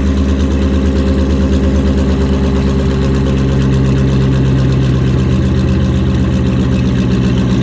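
Dodge Charger R/T's V8 idling loud and steady through straight-piped exhaust with the mufflers removed and gutted catalytic converters, on a cold-start fast idle.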